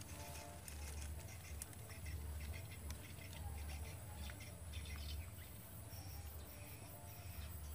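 Faint outdoor ambience: small birds chirping over a low rumble.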